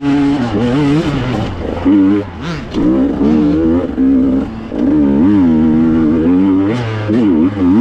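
Two-stroke enduro motorcycle engine revving up and down repeatedly under throttle, its pitch rising and falling with short dips between pulls. It cuts in suddenly at the start.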